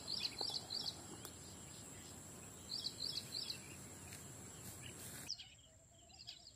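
A bird calling in two quick runs of four or five repeated sharp notes, about three seconds apart, over steady outdoor background noise and a constant high-pitched whine. The background noise drops off abruptly about five seconds in.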